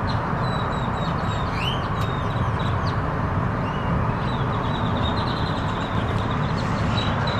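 Steady low rumble of a stationary car, with short bird chirps now and then.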